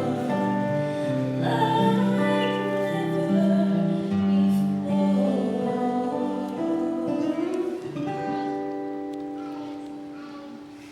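A woman and a man singing a slow ballad to acoustic guitar, the closing phrase of the song; after about eight seconds the voices stop and the final chord rings on, fading away.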